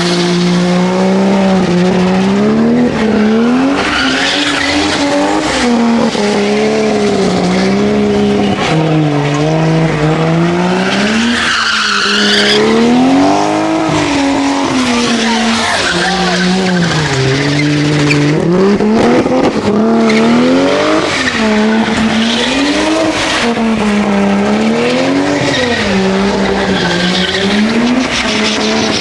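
Car engine held at high revs, rising and falling in repeated waves as the car spins donuts, with its tyres squealing; the loudest squeal comes about twelve seconds in.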